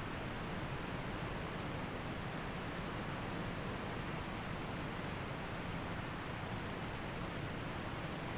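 Waterfall and mountain creek rushing steadily, an even roar of falling water.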